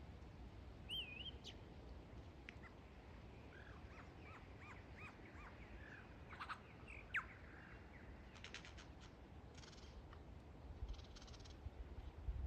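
Lyrebird singing faintly: a varied run of whistles and quick chirps, with a sharp note about seven seconds in and several dry, rattling bursts in the second half.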